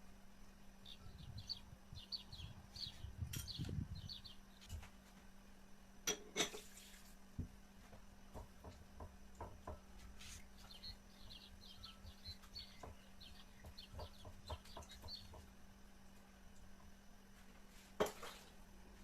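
A bird chirping in quick runs of short high notes, twice, with a few sharp clinks like dishes or utensils being handled, the loudest about six seconds in and near the end.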